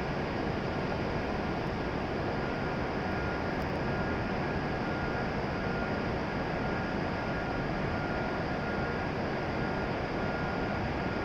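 E7 series Shinkansen train standing at the platform: the steady noise of its running equipment, with thin, steady high tones above it and no change in pitch or level.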